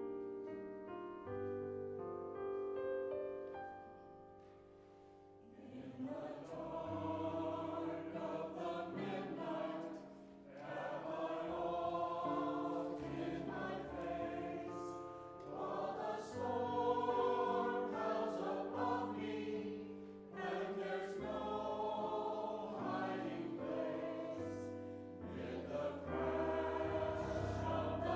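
Choir singing with piano accompaniment. The piano plays alone at first, and the choir comes in about six seconds in.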